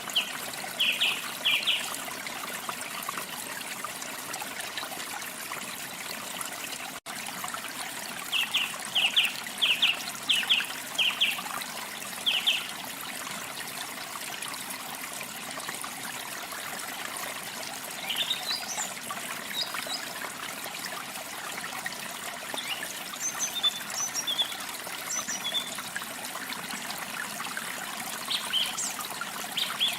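Water trickling steadily, with small birds chirping over it in quick clusters of short chirps: a burst at the start, another run from about 8 to 12 seconds in, and thinner, higher calls scattered through the second half.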